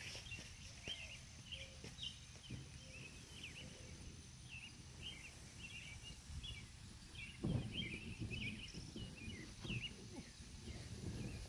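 Small birds chirping and calling over and over. About seven and a half seconds in, a burst of low rustling with a few knocks, the loudest sound here.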